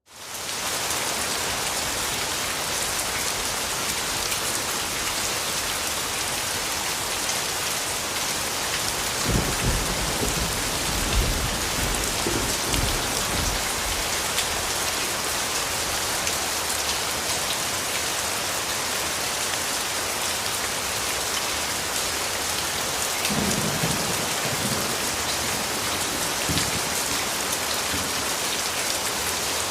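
Steady rainfall, fading in over the first second. Low rumbles of distant thunder come about nine seconds in and again later.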